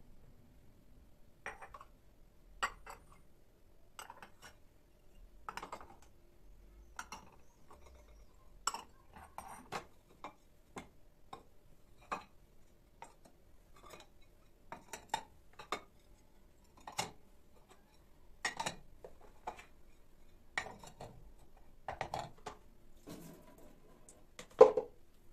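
Irregular light knocks and clinks of hard objects being handled, roughly one every second, some ringing briefly, with the loudest knock near the end.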